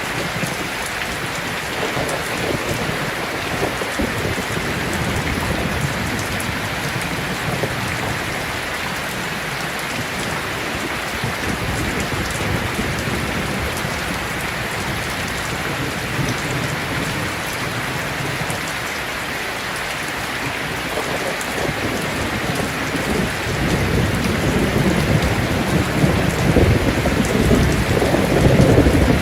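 Heavy rain falling steadily, with thunder rumbling low and growing louder over the last several seconds.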